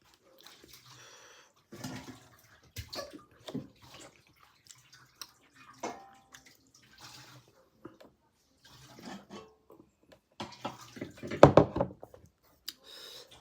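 Wet eating sounds: pork being chewed with irregular mouth clicks and smacks, and a louder burst of sound near the end.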